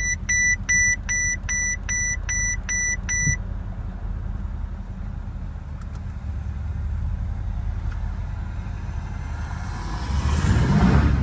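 2011 Mercedes-Benz S63 AMG's 5.5-litre twin-turbo V8 idling just after start-up, with the car's warning chime beeping about two and a half times a second for the first three seconds. Near the end the engine is revved once, its pitch rising and falling.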